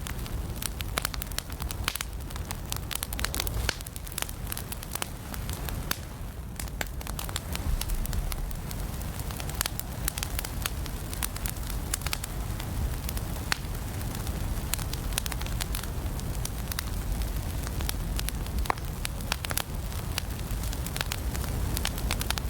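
Wood fire burning in a fireplace: a steady low rumble of flame with many sharp, irregular crackles and pops.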